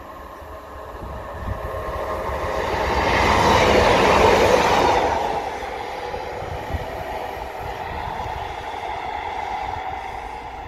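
A Class 150 Sprinter diesel multiple unit passing close by. The engine and wheel noise builds to a loud rush about three to five seconds in, then drops to a steadier rumble as the train runs away.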